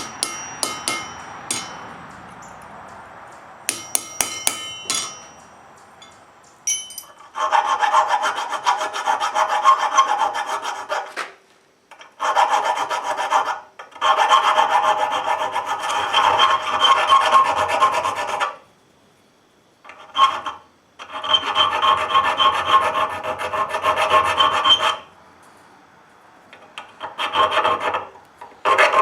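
Hand file rasping on a forged wrought-iron piece in several runs of quick strokes, each a few seconds long with short pauses between, the iron ringing as it is filed. A few light metallic clinks come first.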